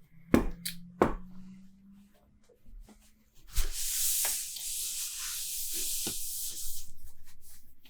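Two sharp clicks of a crowler can being handled, then IPA poured from the can into a glass: a steady fizzing hiss of pouring and foaming for about four seconds.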